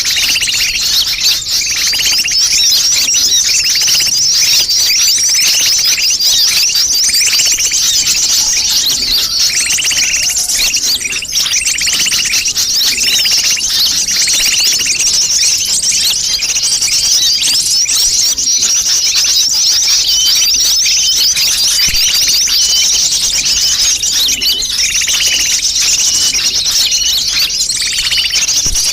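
Recorded sunbird calls used as a bird lure: a dense, noisy chorus of high, thin chirps and fast trills from many birds at once, going on without a break.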